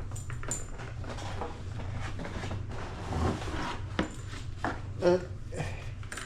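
Handling noise from unpacking: rustling and light knocks of packaging and plastic parts, with one louder knock about five seconds in, over a steady low hum.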